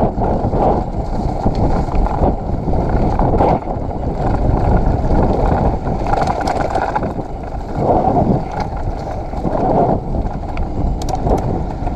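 Mountain bike riding a wet, muddy woodland trail: wind rushing over the camera microphone, with tyre noise and short knocks and rattles from the bike over the rough ground.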